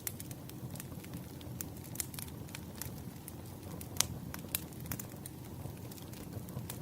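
Wood fire crackling: irregular sharp pops and snaps over a low rumble, with a louder snap about four seconds in.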